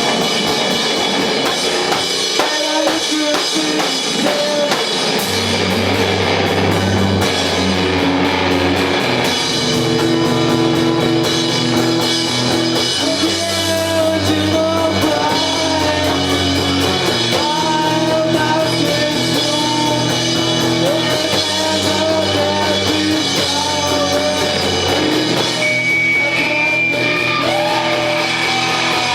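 Live rock band playing in a garage: electric guitar, drum kit and a singing voice, with a low bass part coming in about five seconds in and holding long notes.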